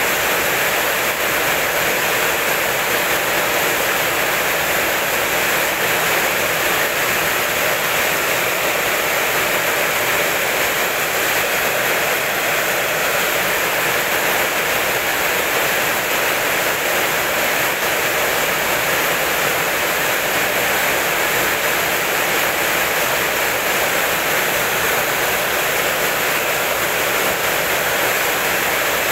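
Rain falling steadily, an even unbroken hiss with no thunder.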